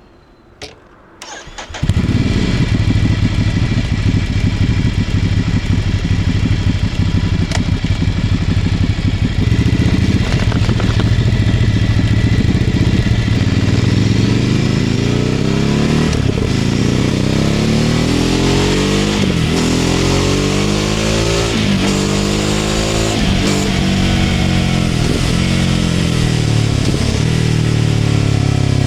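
Ducati Scrambler 800's air-cooled L-twin engine, fitted with a LeoVince LV-10 exhaust, cold-started: a couple of faint clicks, then the engine catches about two seconds in and idles steadily. In the second half the engine speed rises and falls several times with brief dips, as the bike moves off.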